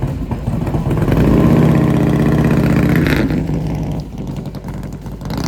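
Harley-Davidson Softail V-twin motorcycle engine accelerating past, growing louder about a second in and then fading away.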